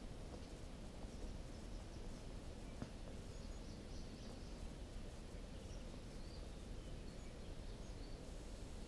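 Steady low background rumble with faint, short high bird chirps scattered through it, and a single faint click about three seconds in.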